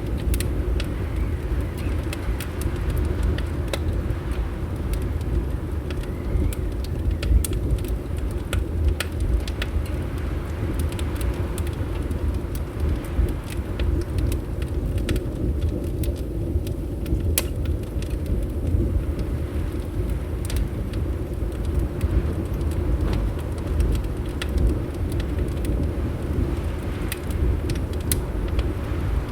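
Wood fire crackling, with irregular sharp pops and snaps scattered throughout, over a steady low rumble of wind.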